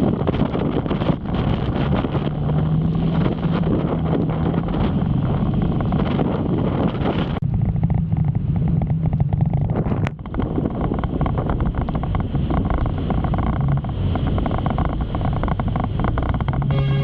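Motorcycle riding in the rain: the engine runs at a steady low note under a heavy rush of wind noise on the microphone. The rushing hiss eases for a couple of seconds around the middle, ending in a single sharp click.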